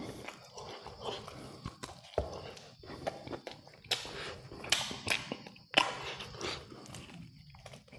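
A person eating and chewing close to the microphone: irregular sharp clicks and crunches with mouth noises between them.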